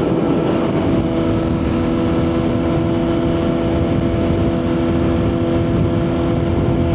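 2023 Suzuki GSX-R1000's inline-four engine holding a steady speed, with wind rumbling on a helmet-mounted microphone.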